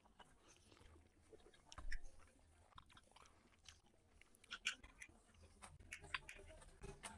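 Faint, close-miked sounds of a person eating chicken curry and rice by hand: scattered wet chewing and mouth clicks, with the loudest bites about two seconds in and a little past the middle.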